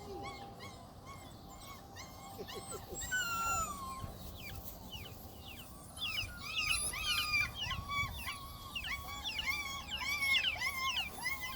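Several young puppies whining and yelping with short high-pitched cries, sparse at first with one drawn-out falling whine, then many cries overlapping from about halfway through.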